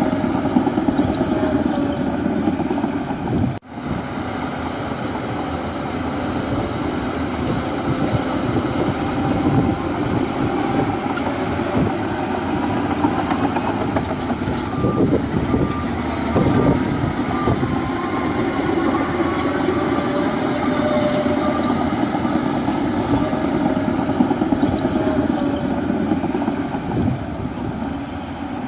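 Crawler bulldozer's diesel engine running steadily with a rumbling, clattering machine noise. It drops out briefly about three and a half seconds in.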